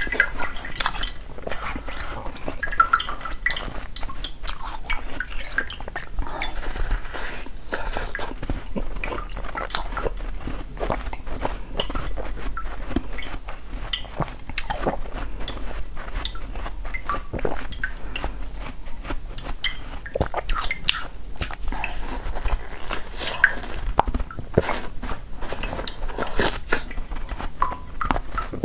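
Close-miked biting and chewing of a frozen treat, a steady stream of sharp crisp crackles and wet mouth sounds.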